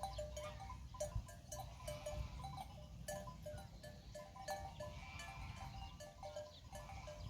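A flock of sheep bleating, with a call about five seconds in, over a steady pattern of short, evenly pitched repeating notes and a low rumble.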